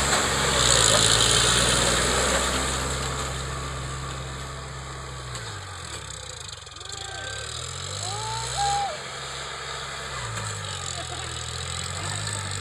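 Tractor engine running, its low note sliding down a little past halfway and climbing back again.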